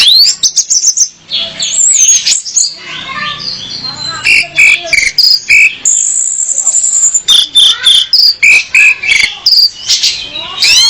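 Female orange-headed thrush calling: a fast, varied run of high chirps, trills and short whistled notes, with one longer high note about six seconds in.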